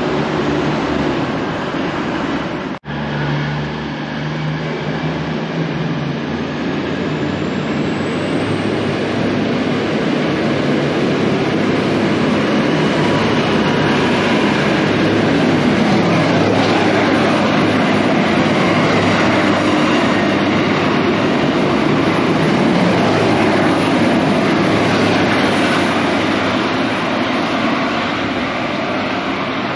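V/Line VLocity diesel multiple unit (six cars) running through the station, with a steady rumble of engines and wheels on rail. It cuts out sharply for an instant about three seconds in, then builds to its loudest midway and eases off near the end.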